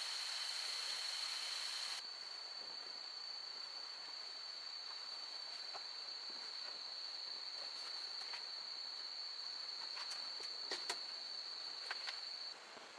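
Forest insects trilling steadily in one high, unbroken pitch over a background hiss, with a few faint clicks near the end.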